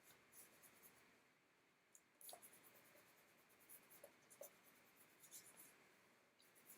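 Faint rustling and rubbing of folded paper being handled, as two glued paper squares are matched up and pressed together, with a few short scratchy sounds.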